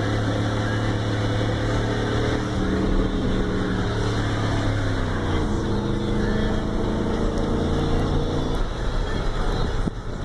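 Pickup truck engine running under load, its note holding steady, dropping lower about halfway through, then falling away near the end. The riders blame the truck's lack of power on a weak fuel pump limiting fuel.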